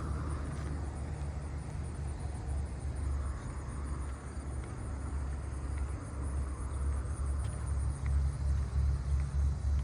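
A low, uneven rumble over a steady high-pitched insect chorus.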